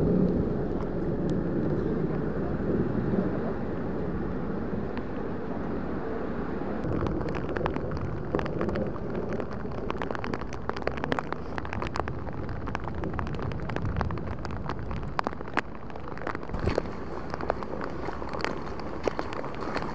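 Running floodwater and rain, a steady rushing noise; from about seven seconds in, a dense patter of raindrops striking close by is added.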